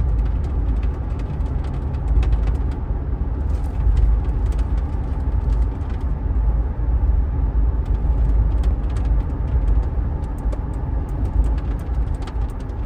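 Cabin noise of a 2015 Toyota 4Runner under way: a steady low road and drivetrain rumble with scattered faint ticks. It carries the odd noise that the owner hears rising when accelerating to 70–80 km/h.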